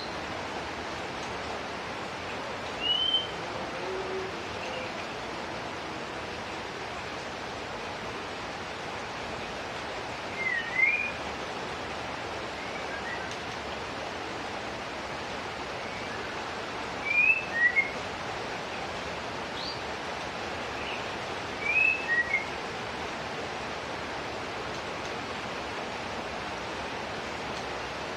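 A white-rumped shama gives short chirping calls in four brief bursts several seconds apart, not a full song. A steady hiss of falling water runs under the calls.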